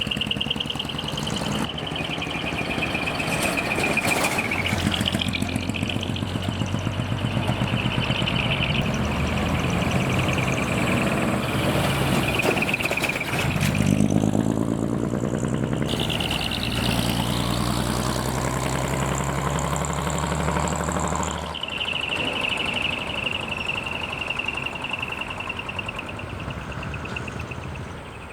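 Heavy diesel truck engines running as decorated trucks pull away, one revving up about halfway through. A steady high-pitched tone sounds over most of it.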